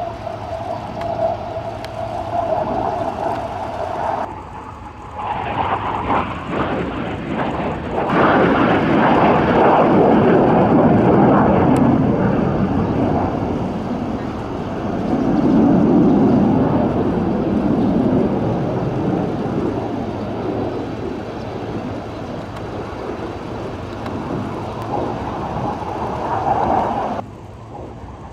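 Jet noise from an AIDC T-5 Brave Eagle jet trainer's twin turbofan engines as it flies a maximum-performance turn. A steady high whine for the first four seconds gives way to a loud rushing roar that swells about eight seconds in, peaks again midway, then eases and cuts off abruptly near the end.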